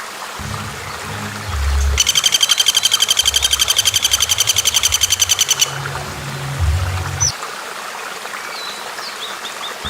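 A bird's loud, rapid rattling trill of evenly spaced high notes, starting about two seconds in and lasting some three and a half seconds, then a few short high chirps near the end. Underneath are a steady hiss of running water and a low background music bed.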